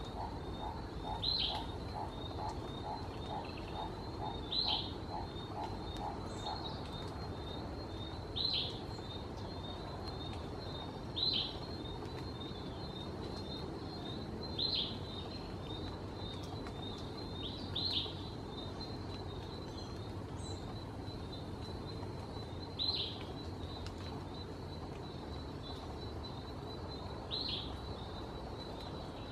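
A bird gives a short, sharp, high call every three to four seconds over a faint steady high tone. For the first six seconds or so a quick run of lower pulses, about three a second, sounds beneath it.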